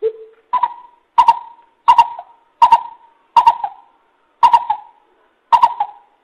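Coucal (bubut) calling a series of short, hollow hoots. One lower note comes first, then seven higher notes follow, spaced a little under a second apart.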